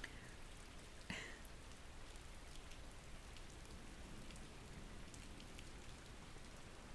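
Steady, faint rain falling, an even hiss with scattered drops, from a thunderstorm ambience. A single short click or rustle about a second in.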